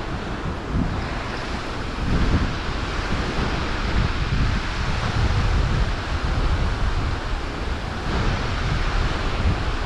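Wind gusting over the microphone: a steady rushing noise with uneven low rumbling buffets.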